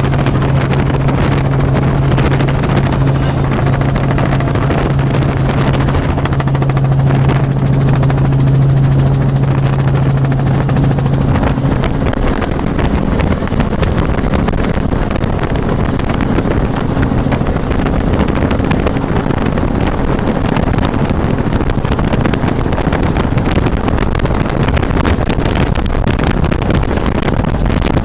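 Helicopter in flight heard from inside the cabin: steady engine and rotor noise with wind buffeting the microphone. A strong low hum sits under the noise until about twelve seconds in, then fades away.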